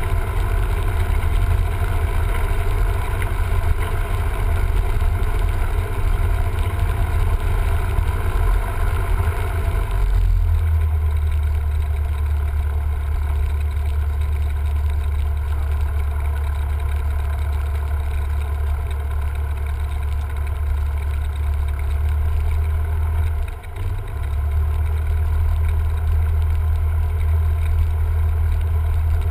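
Cessna 172M's four-cylinder Lycoming O-320 engine and propeller running with a steady drone. About ten seconds in the note drops, the higher part of the sound falling away and leaving a lower hum, with a brief dip in level near the end.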